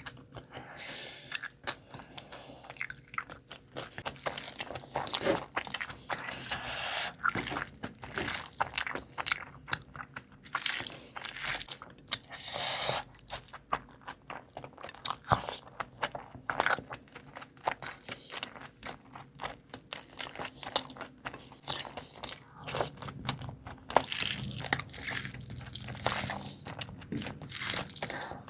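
Close-miked crunchy eating: repeated crisp bites and chewing, crackling in quick irregular bursts.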